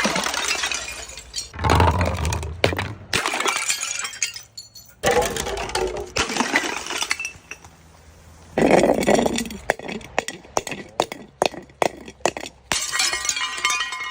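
Glass breaking and being crushed: repeated sharp cracks, crunching and clinking of glass shards, in several bursts with short pauses between them.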